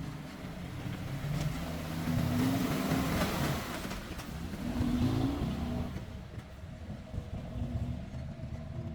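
Diesel engine of an earthmoving machine (dump truck or bulldozer) running and revving up twice, its pitch rising about two seconds in and again near five seconds, with a loud hiss of noise around three seconds in.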